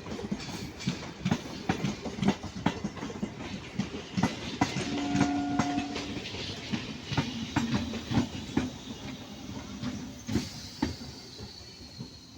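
Indian Railways train running, its wheels clicking rapidly and irregularly over the rail joints. A brief steady tone sounds about five seconds in, and the sound fades over the last couple of seconds.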